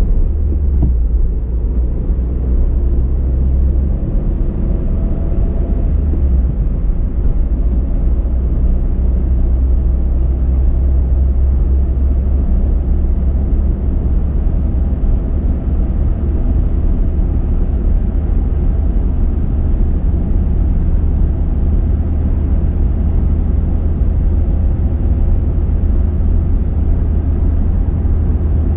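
A car driving at a steady speed: a steady low rumble of road and engine noise with no change in pace.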